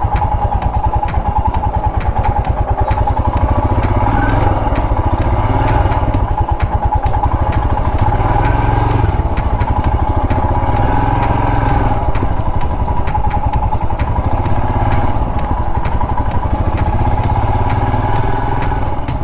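Royal Enfield Himalayan's 411 cc single-cylinder engine running steadily on the move, its firing pulses a fast, even beat.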